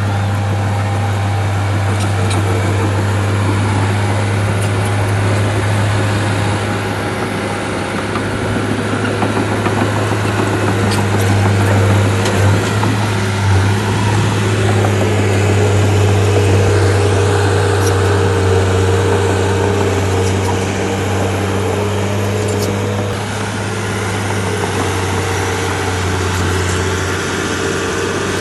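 Shantui bulldozer's diesel engine running steadily with a deep, constant drone that grows a little louder through the middle.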